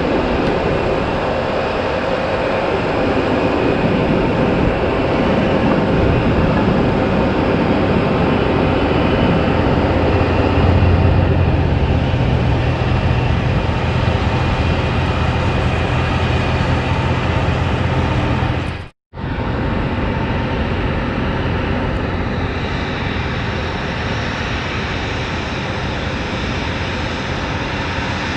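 Jet airliner engines, a loud steady rushing noise with a deep hum underneath for part of the time. About two-thirds of the way in the sound cuts out for an instant, then carries on.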